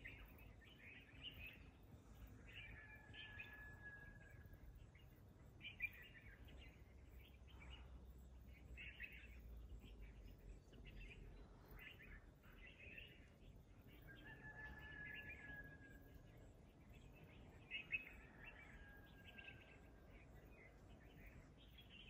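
Wild birds chirping and calling in short repeated bursts, twice with a long, steady whistled note, over a faint low rumble of wind or distant background. A couple of brief sharp ticks stand out above the birdsong.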